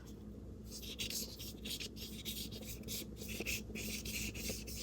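Paintbrush strokes on paper: a small flat brush rubbing and scratching in short repeated strokes over a faint steady hum.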